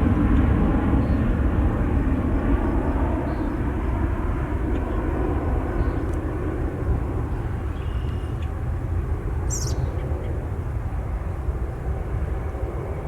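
Jet airliner's engines with a steady rumble and faint tones, loudest at the start and slowly fading as the aircraft moves away.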